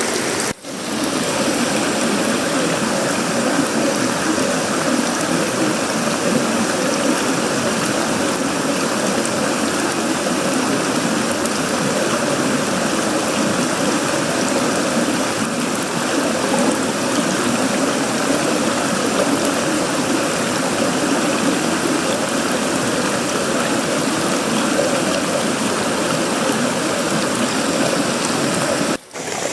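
Heavy tropical rain pouring steadily onto a sheet-metal roof, wood and leaves. The sound drops out briefly about half a second in and again near the end.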